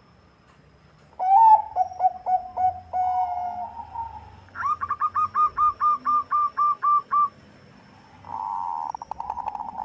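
Zebra dove (Bangkok perkutut) cooing: a rolling coo about a second in, then a run of about a dozen quick, evenly spaced coo notes, then a buzzy, rapidly pulsed call near the end.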